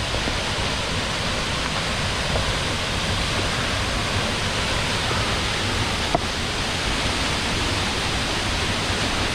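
Steady rushing of a plunge waterfall that pours from a disused slate-mine tunnel into a quarry pit, with a brief click about six seconds in.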